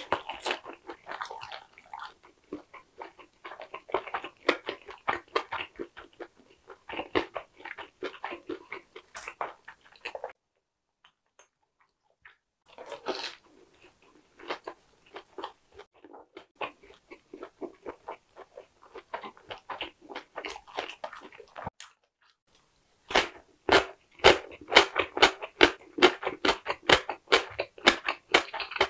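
Close-miked chewing of a crispy pan-fried Korean dumpling (gunmandu): rapid crunching bites. It breaks off for about two seconds around a third of the way in, and is louder and quicker over the last six seconds.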